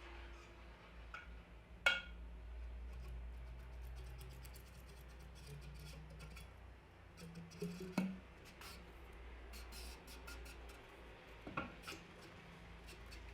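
Workshop handling noises: scattered light clicks and clinks, with three sharper knocks about two, eight and twelve seconds in, over a low steady hum.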